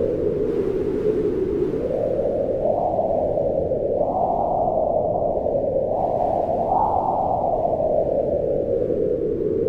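Wind blowing steadily with a hollow, whistling tone whose pitch rises and falls as gusts swell, highest about 4 and 7 seconds in.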